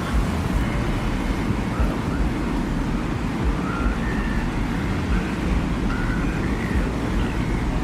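Steady, deep desert wind over open sand, its low rush unbroken, with faint short high whistles coming and going over it.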